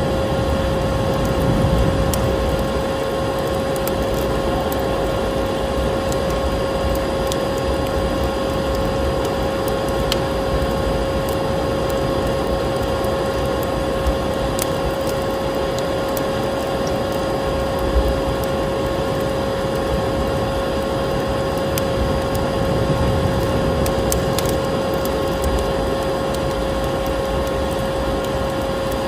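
Vacuum cleaner running with a steady droning whine, mixed with the irregular crackles and pops of a wood fire in a fireplace.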